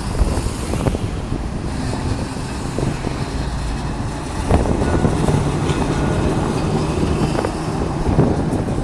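Blackpool electric tram running on its rails, with a steady rumble, a low hum in the middle and a few sharp clacks from the wheels.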